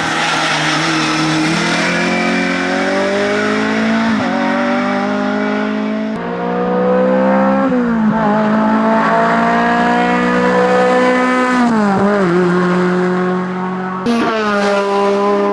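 Hillclimb race car engines revving hard up through the gears, the pitch climbing and then dropping at each shift. The sound changes abruptly to another car about six seconds in and again near the end.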